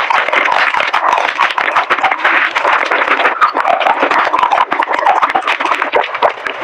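Close-miked eating sounds of biting and chewing chocolate: a dense, unbroken run of crackles, crunches and wet mouth clicks.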